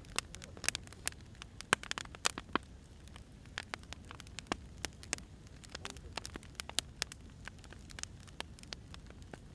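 Firewood burning, with irregular sharp pops and snaps crackling over a low, steady rumble.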